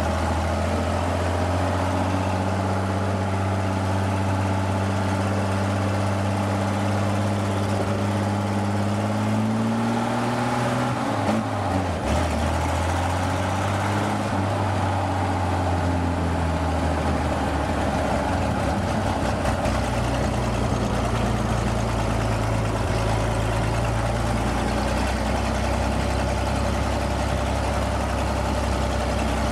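Old Chevy pickup truck engine running steadily. Its pitch climbs, drops sharply about eleven seconds in, wavers for a few seconds and then holds level again.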